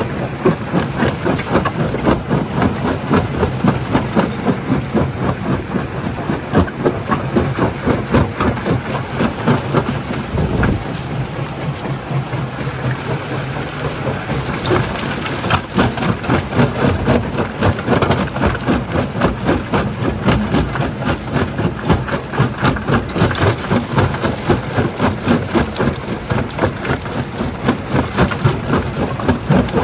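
Stone crusher running under load: a steady low engine drone under a fast, even clatter of rock knocking and grinding through the jaws. The clatter eases a little around the middle, then picks up again.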